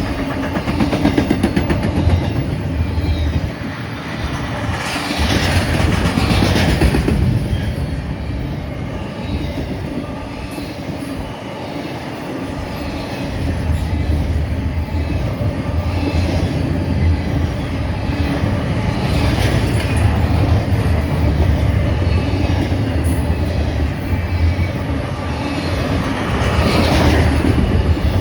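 Freight train of intermodal cars passing at speed close by: a continuous heavy rumble of steel wheels on rail with clatter over the rail joints. It swells louder about five seconds in and again near the end.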